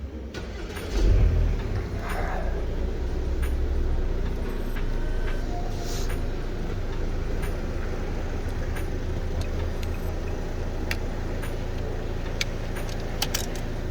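Audi car engine starting about a second in with a brief loud surge, then idling steadily, with occasional light clicks.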